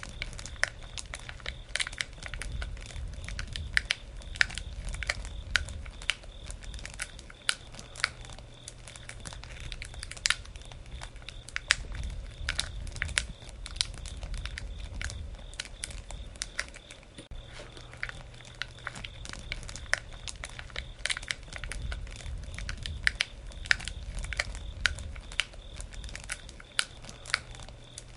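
Campfire burning: wood crackling and popping in many irregular sharp snaps over a low, soft rumble of the flames.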